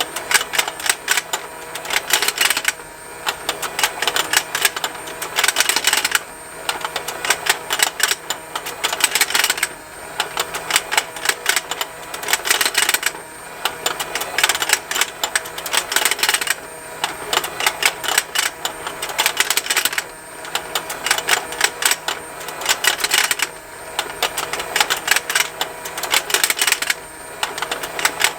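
Plastic fishing game toy running: rapid, continuous ticking and snapping of plastic over the steady hum of its small motor. The clicking swells into louder clusters about every three seconds as the pond turns.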